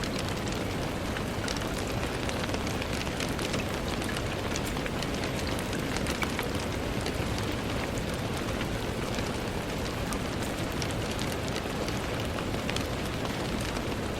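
Steady rain with many separate drops ticking against a window pane.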